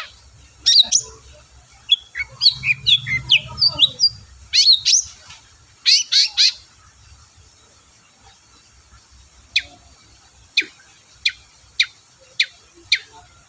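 Long-tailed shrike (cendet) singing: a dense run of sharp twittering and chattering phrases in the first half, then a string of single sharp, falling calls, about one every two-thirds of a second.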